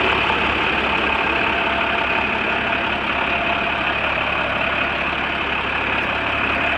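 Diesel engine of a 2011 International 4400 truck idling steadily.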